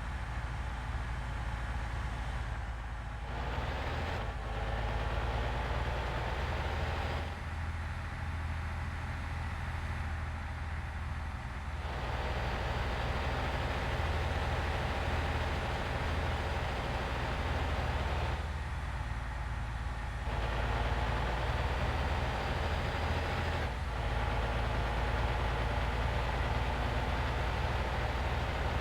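Heavy vehicle on the move: a steady low engine drone with road noise over it, the road noise growing louder and softer in stretches of several seconds.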